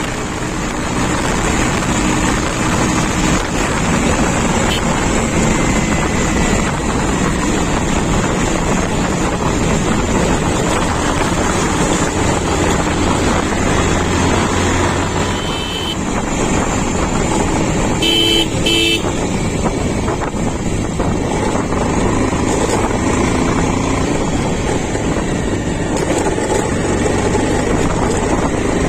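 Diesel engine of a JCB 3DX backhoe loader running steadily while loading soil into a tractor. A few short beeps sound about two-thirds of the way through.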